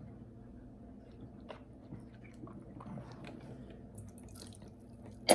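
Faint wet mouth sounds and small scattered clicks as a mouthful of shampoo is spat out, with one sharp short snap near the end.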